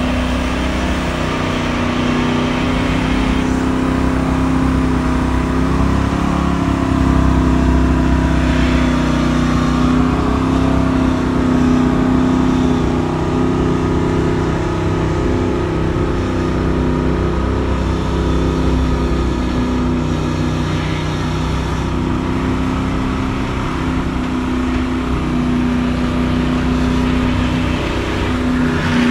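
Land Rover Discovery 4x4's engine running at steady, held revs as it pushes through deep snow, rising and falling slightly now and then.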